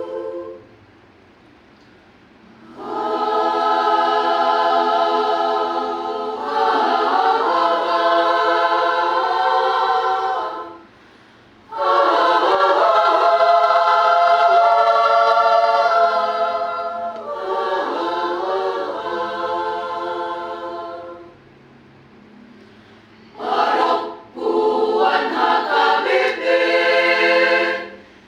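A choir singing unaccompanied in harmony, in held phrases broken by short pauses.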